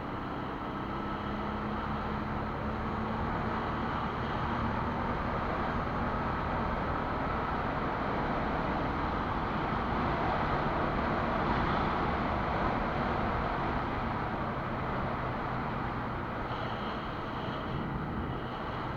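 Quad bike (ATV) engine running steadily while riding, mixed with road and wind noise on the microphone.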